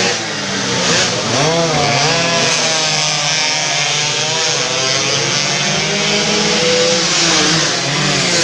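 Several two-stroke 150 cc underbone race motorcycles running hard at high revs, their engines' pitch rising and falling over one another as they accelerate and shift.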